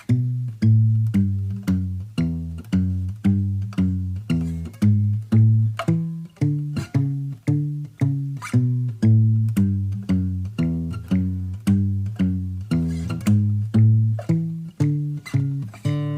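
Background music: a plucked guitar playing a low line of single notes, about two a second, each note dying away before the next.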